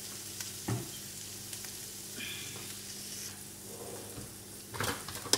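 Onion, garlic, hot dog and corn sizzling in oil in a nonstick wok, a steady hiss. A dull thump about a second in and sharp clinks near the end, the last one the loudest sound.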